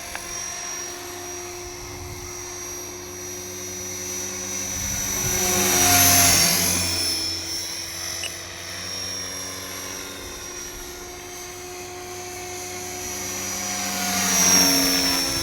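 Align T-Rex 470LP electric RC helicopter in flight. Its steady motor and rotor whine swells as it passes close about six seconds in and again near the end, and the pitch drops slightly just after each pass.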